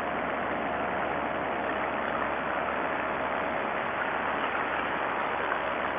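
Vittorazi Moster 185 two-stroke paramotor engine running steadily in flight, a constant drone mixed with the rush of air. The engine has just been rebuilt and its carburettor is not yet adjusted right.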